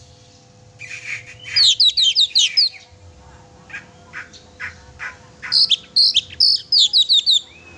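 Oriental magpie-robin (kacer) singing loudly: two quick runs of sharp, down-slurred whistled notes, with a few separate notes between them.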